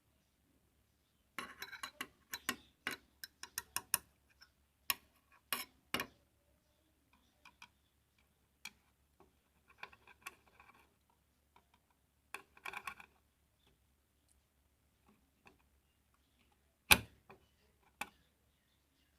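Irregular sharp clicks and taps of small hard objects being handled, coming in clusters, with one loudest knock near the end.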